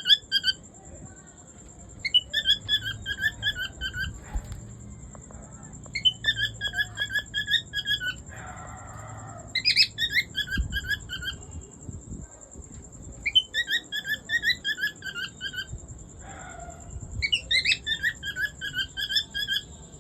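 Albino cockatiel calling in the repeated phrases of its mating ('meeting') call: each phrase is about two seconds of eight or so quick, evenly spaced chirps, and the phrases come back about every four seconds, five times over. A faint steady high whine runs underneath.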